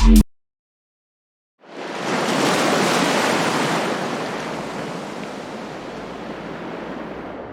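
A steady, even rushing noise, like surf or wind, comes in about a second and a half in after a brief silence, swells, then slowly fades. Electronic music cuts off right at the start.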